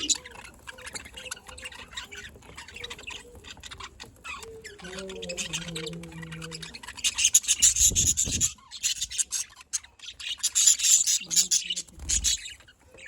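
Pet budgerigars chattering and chirping in bursts, with two loud spells of fast high-pitched chatter in the second half.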